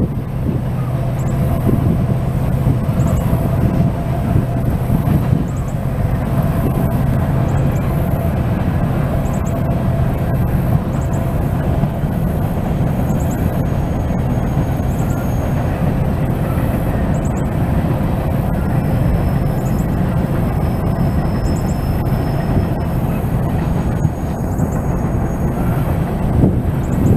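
Train rolling past with a steady, continuous low rumble.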